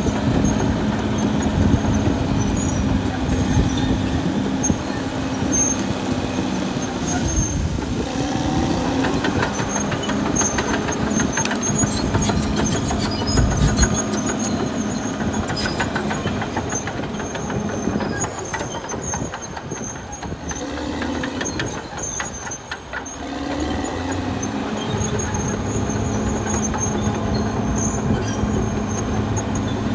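Caterpillar D6R XL bulldozer's diesel engine running under load, with the clanking and squealing of its steel tracks. The engine eases off for a few seconds a little past halfway, then picks up again.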